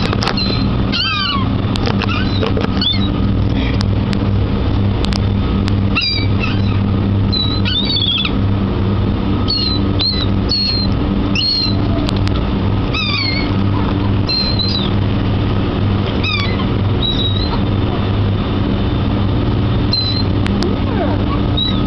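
Seagulls giving many short, high-pitched calls, some falling in pitch, over a steady low hum.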